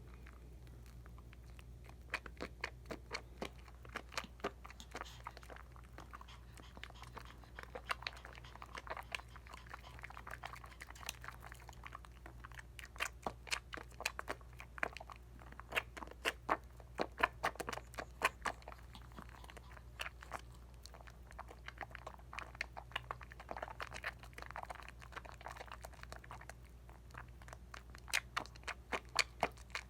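Hands lathering a bar of Dial coconut soap: quick clusters of soft squishing and crackling suds, starting about two seconds in.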